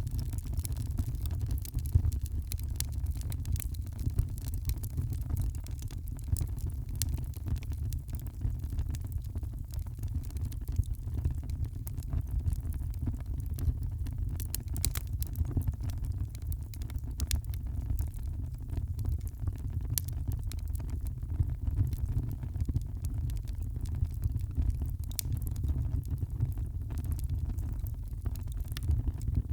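Wood fire in a fireplace, crackling with frequent small pops over a steady low rumble.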